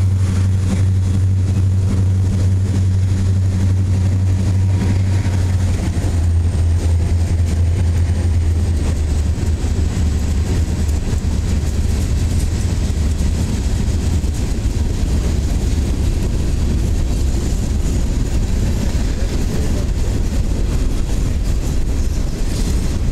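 Freight cars rolling past, a steady, loud low rumble of steel wheels on the rails, with no break through the train.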